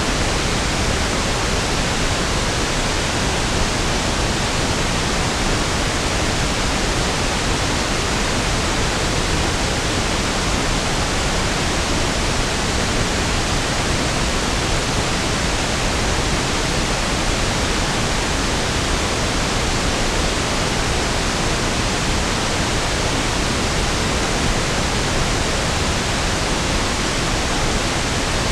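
Pink noise (1/f noise): a steady, even hiss with equal energy per octave, with no change or events.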